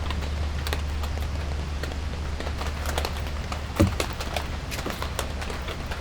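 Rain falling, with scattered individual drops ticking sharply and irregularly on a nearby surface over a steady low rumble; a single louder thump comes just before four seconds in.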